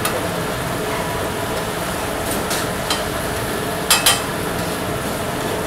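Fish frying in a thick red masala on a flat griddle: steady sizzling and bubbling, with a spatula scraping and tapping on the griddle, a quick double tap about four seconds in being the loudest.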